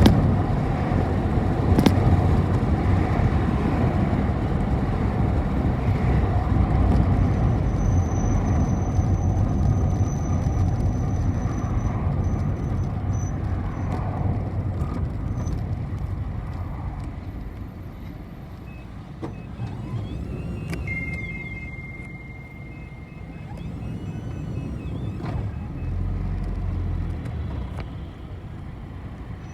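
City bus running, heard from inside: a steady low engine and road rumble that eases off about two-thirds of the way through, as if the bus slows, then picks up again. A short, high, steady electronic beep sounds near the dip.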